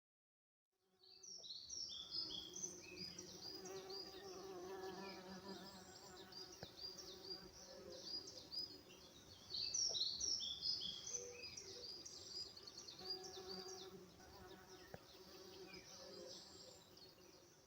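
Insects buzzing steadily, with small birds chirping over them in many short, high notes that fall in pitch. It fades in about a second in and fades out near the end.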